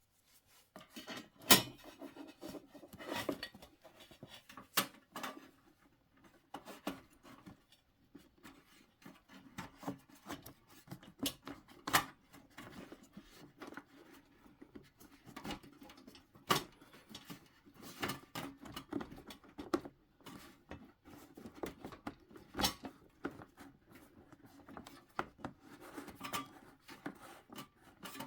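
Hand-work on diesel heater parts being refitted: continual rubbing and handling, with scattered sharp clicks and knocks of plastic and metal pieces being set and fastened back in place.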